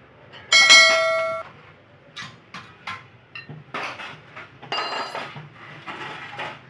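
A metal part struck or dropped with a loud clang that rings for about a second, followed by a run of shorter knocks and clinks of hand tools on metal, while a car's front brake disc and hub assembly is being dismantled.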